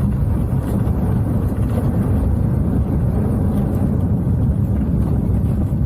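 Aircraft noise during a landing: a loud, steady low rumble with wind noise.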